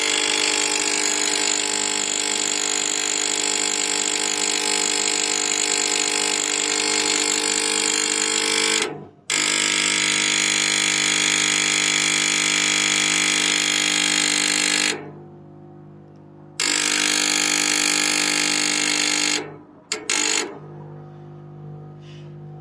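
Brivis Wombat 120 gas heater making a loud, steady mechanical noise that the owner traces to the control board and that persists with a new capacitor fitted. It cuts out briefly twice and stops about twenty seconds in.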